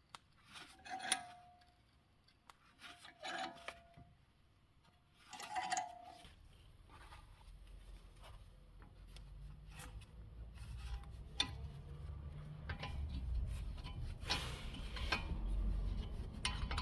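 Metal tools and parts being handled during brake work: four short clinks with brief ringing in the first half, then a low rumble that builds gradually, with scraping and scattered knocks.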